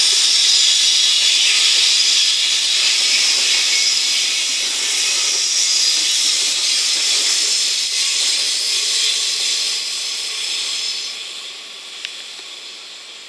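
Steel wheels of a JR Freight container train's flat wagons rolling over the rails, a steady high-pitched rushing hiss. It fades as the last wagon passes and draws away, with a single sharp click near the end.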